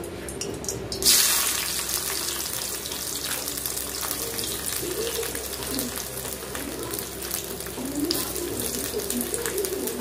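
Chopped green capsicum (bell pepper) pieces hit hot oil in a steel kadai with a sudden loud sizzle about a second in, which carries on as a steady frying hiss.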